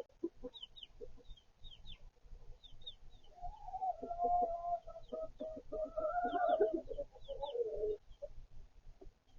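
Backyard chickens clucking, with one long wavering call about three seconds in that drops in pitch near its end. Faint high peeps sound above it.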